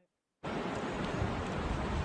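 Strong wind buffeting the microphone over rushing river water, a steady rumbling rush that cuts in abruptly about half a second in after near silence.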